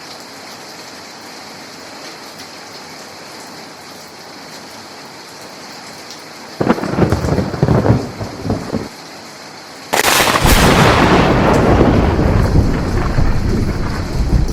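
Steady rain falling in a thunderstorm. About six and a half seconds in, thunder rumbles in a few uneven bursts for about two seconds; at about 10 s a loud thunderclap breaks and rolls on in a long rumble.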